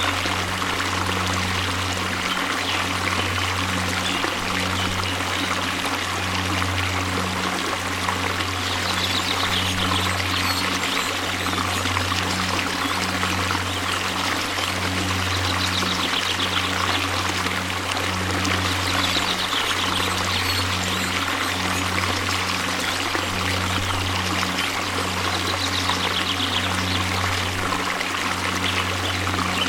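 Waterfall: steady, unbroken rushing of falling water. A faint high trill rises above it a few times.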